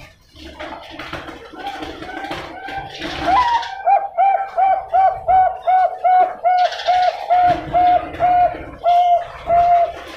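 Zebra dove (Bangkok-type perkutut) singing: a low rolling opening, then from about three and a half seconds in a long run of quick, evenly spaced coo notes, about three a second.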